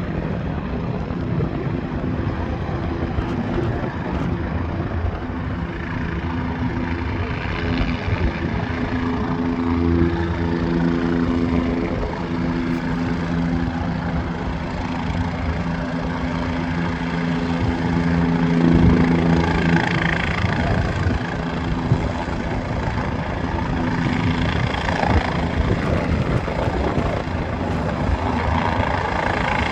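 Aircraft engines running steadily, a continuous drone with humming tones that swell in the middle and fade after about twenty seconds.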